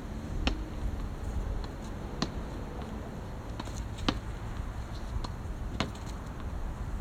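Badminton racket striking shuttlecocks in a steady practice rhythm: four sharp hits about every two seconds, with fainter clicks between, over a steady low rumble.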